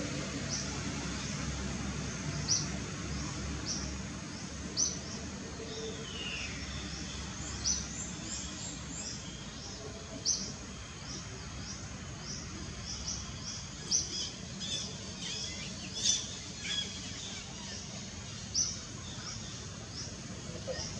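Birds chirping: a short high chirp repeated every two to three seconds, with softer calls and one falling whistle in between, over a steady background hiss.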